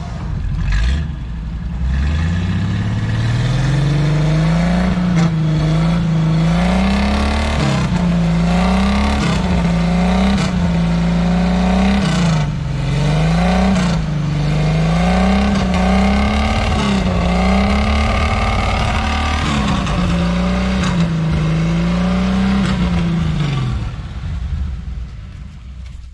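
Jeep engine revving hard under load. Its pitch climbs in the first couple of seconds, then swings up and down over and over, about every second and a half.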